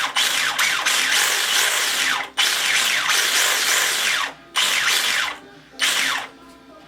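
Axial SMT10 monster truck's electric motor and geared drivetrain spinning on the bench under throttle in several bursts, the whine rising and falling in pitch with each blip and dropping away near the end. This is the first power-up test of the newly wired electronics, checking that the motor turns the right way.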